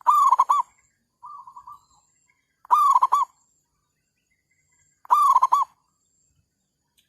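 Zebra doves (perkutut) cooing: three loud coo phrases about two and a half seconds apart, with a fainter coo from another dove answering after the first.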